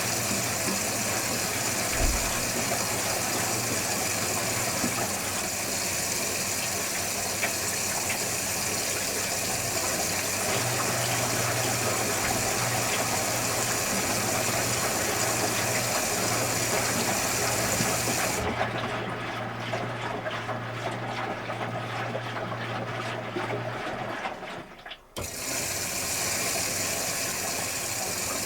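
Electrolux Wascator W355H commercial washing machine with water running through it: a steady rush of water over a low hum. The rush thins out late on and drops away briefly near the end before resuming.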